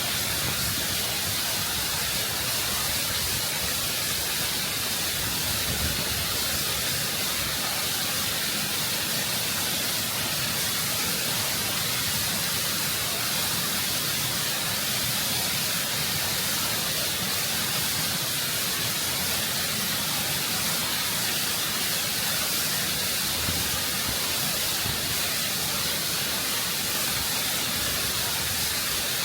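Waterfall water rushing and cascading over rock, a constant, full hiss with no breaks.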